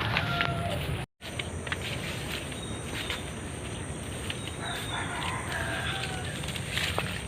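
A rooster crowing faintly in the distance over a steady low background rumble; the sound cuts out for a moment about a second in.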